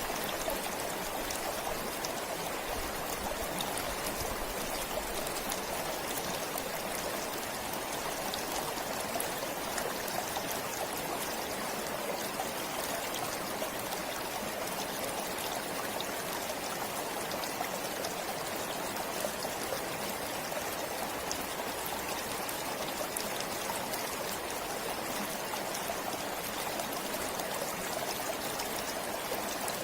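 A forest stream flowing and trickling steadily, an even rushing babble with small splashes.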